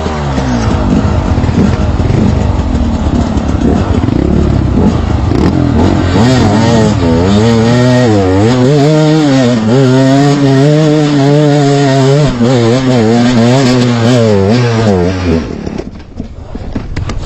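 A vehicle engine revving hard, its pitch rising and falling again and again as it works through trail mud. It stops abruptly a couple of seconds before the end.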